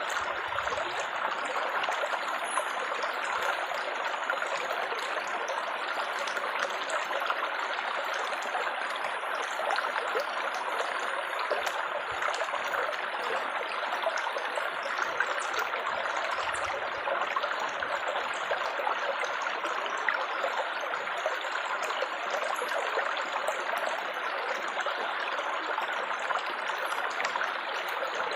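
Water trickling and babbling steadily, with a constant splashing rush and small droplet plinks, like a small stream or fountain.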